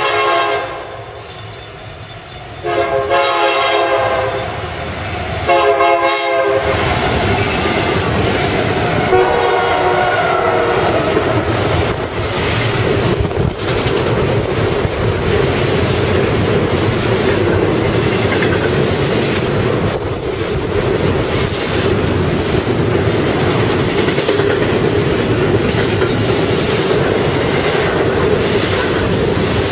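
Union Pacific freight locomotive's air horn sounding two long blasts, a short one and a final long one as the train approaches at speed. The horn then gives way to the loud, steady rush and clickety-clack of intermodal trailer cars passing close by.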